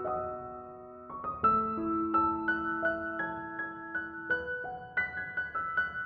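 Soft background piano music: a slow, gentle melody of single struck notes over held low notes.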